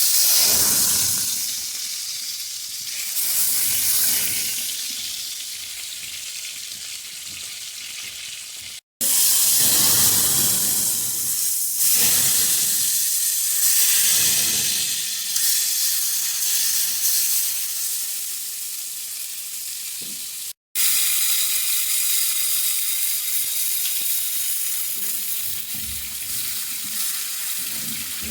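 Steak sizzling in a hot frying pan: a steady frying hiss that surges loud several times and then fades back. It breaks off twice for a split second and comes back at full strength.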